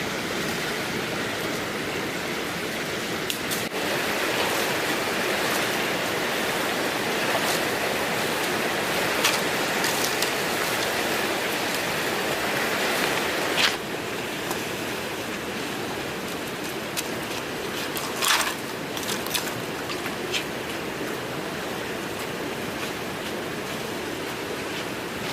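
Steady rush of flowing water, with a few short sharp knocks or clicks over it.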